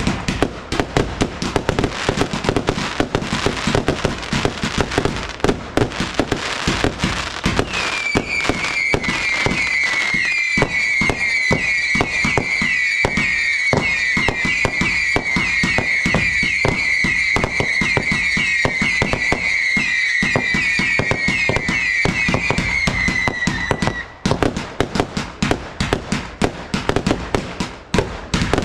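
Consumer fireworks going off in rapid, dense volleys of bangs and crackles. From about eight seconds in until about twenty-four seconds, a run of shrill whistles, each dropping slightly in pitch, sounds over the bangs.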